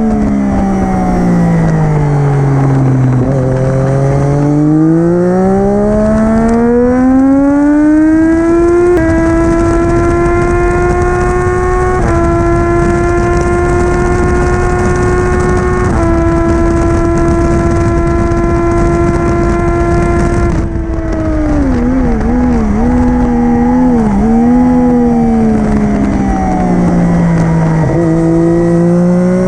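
Triumph Daytona 675R's 675 cc inline three-cylinder engine through an Arrow Stage 3 full titanium race exhaust, ridden hard on track. The revs fall at first, then climb strongly from about four seconds in and run high and steady, stepping through gear changes. About twenty seconds in the throttle is shut, and the revs dip and rise several times as the bike slows. Near the end it accelerates again.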